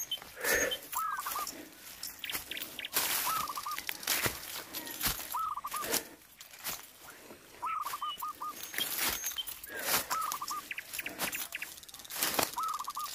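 A chicken clucking in short runs of four or five quick notes, repeated about six times, every two seconds or so, over scattered knocks and rustling.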